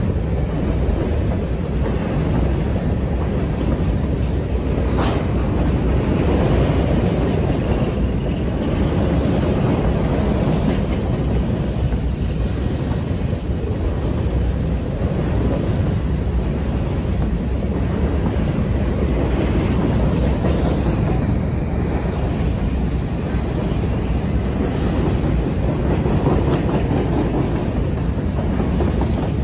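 Freight train of covered hopper cars rolling past: a steady, continuous noise of steel wheels running on rail.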